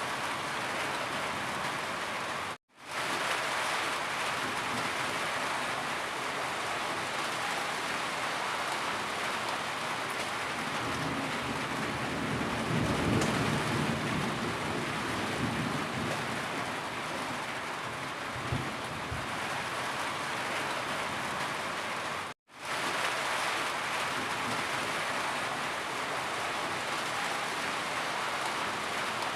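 Steady heavy rain, an even hiss of falling drops, with a deeper swell near the middle. Twice the sound cuts out for an instant and fades back in.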